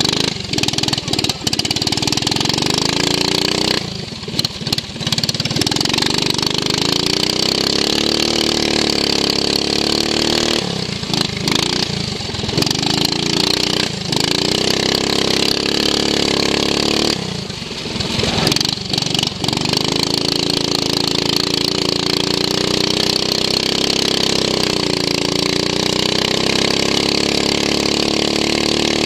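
Racing lawn mower engine heard onboard, running hard. Its note drops away briefly three times, about 4, 11 and 17 seconds in, and climbs again each time as it picks up speed.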